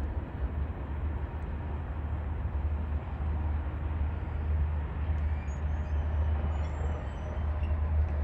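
Freight cars of a Union Pacific freight train rolling past on the rails: a steady low rumble of wheels on track with a hiss of rolling noise above it.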